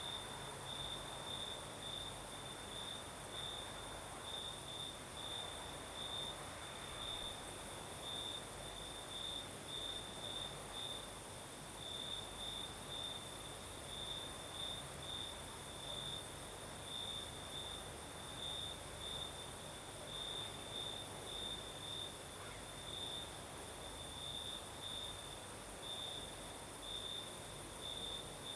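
Crickets chirping in a steady run of short chirps, about two to three a second, over a continuous higher insect trill. A soft, even hiss of night breeze lies underneath.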